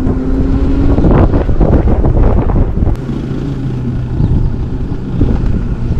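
Wind buffeting the microphone over low vehicle rumble, with a steady low hum for a couple of seconds in the middle.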